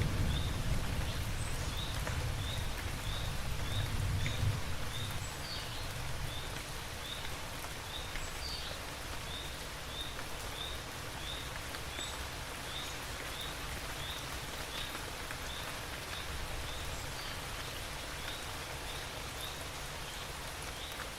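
Steady rain, with a roll of thunder dying away over the first few seconds. A short high chirp repeats about twice a second over the rain.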